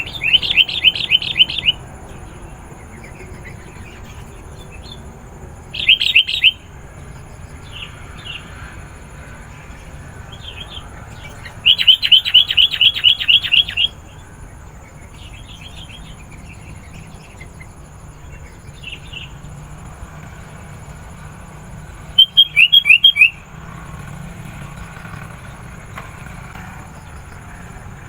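Sooty-headed bulbul calling: bursts of fast repeated notes, loudest at the start, about 6 seconds in, around 12 to 14 seconds in and about 22 seconds in, with softer scattered calls between them. A low steady hum lies under the calls.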